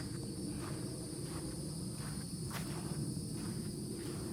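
Steady chorus of insects, a continuous high-pitched drone at two pitches, over an even low rumble with a few faint ticks.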